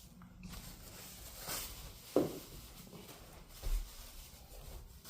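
Faint scattered handling noises with the vacuum switched off: a brief hiss about a second and a half in, a knock just after two seconds, and a low thump near the end.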